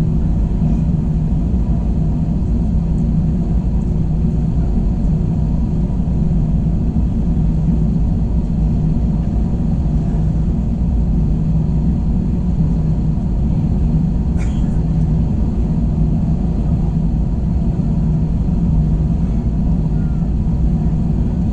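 Steady cabin drone of an Airbus A321 airliner in flight: low engine and airflow rumble with a faint hum. A single short click about fourteen seconds in.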